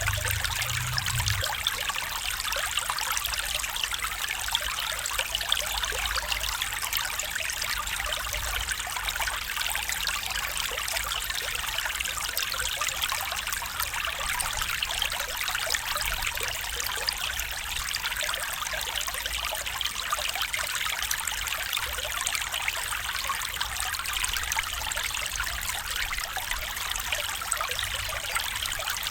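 A small stream trickling and babbling steadily over stones, a dense, even water sound with a bright splashing texture and a faint low rumble beneath.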